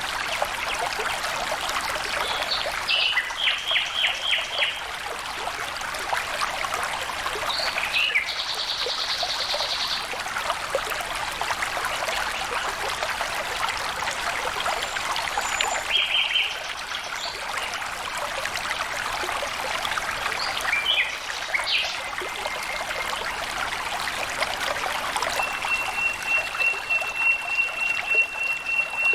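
Flowing stream water trickling and splashing steadily. Short bird chirps come through a few times, and a thin high steady note starts near the end.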